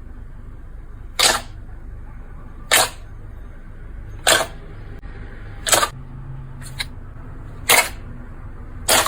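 Slime being pressed and squished by hand, giving a short wet pop six times at a steady pace of about one every one and a half seconds, with a fainter double click between.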